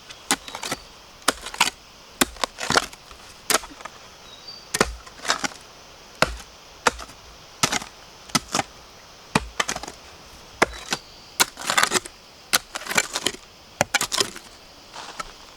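A blade chopping at bamboo shoots: sharp, irregular strokes, about one or two a second, some in quick pairs.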